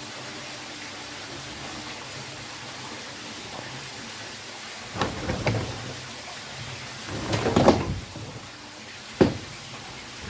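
Parts of a twin-tub washing machine being handled and fitted, over a faint steady hum: a short rattle about halfway through, a longer, louder clatter a couple of seconds later, and a single sharp knock near the end.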